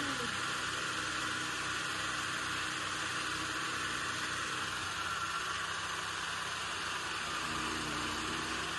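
Chaff cutter machine running steadily: an even mechanical whir and hiss that holds constant throughout.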